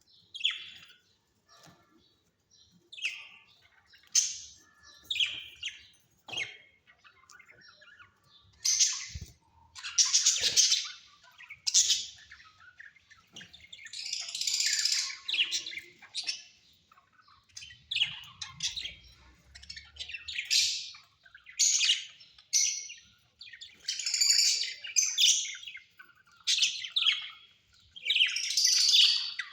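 Pet Australian parrots calling: a series of short, harsh squawks and chirps, about one a second, louder from about eight seconds in.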